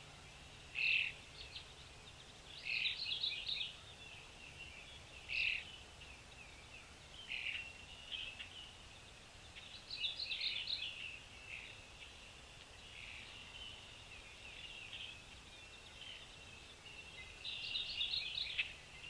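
Small birds chirping, with short bursts of rapid high twittering every few seconds over a faint steady low hum.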